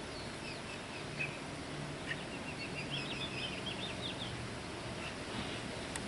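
Small birds chirping faintly in quick, short high calls over a steady background hiss.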